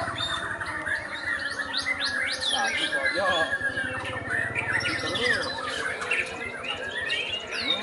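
Many small birds chirping and calling at once, a dense chorus of overlapping short chirps, whistles and squawks.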